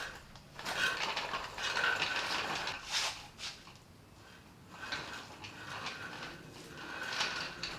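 Irregular metallic clinking and rattling, like tools and metal parts being handled, in two stretches with a lull in the middle.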